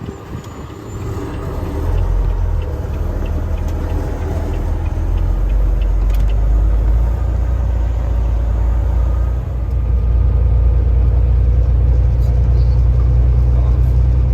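Car-hauling truck's engine and road noise: a steady low rumble that builds over the first two seconds and grows louder again about ten seconds in, as the truck gets under way.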